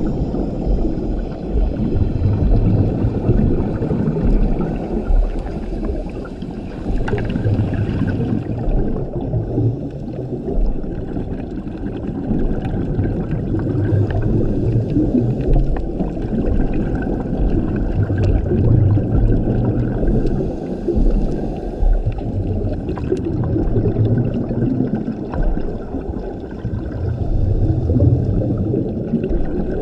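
A scuba diver's regulator breathing underwater: exhaled bubbles gurgle and rumble in a slow rhythm, swelling about every five seconds.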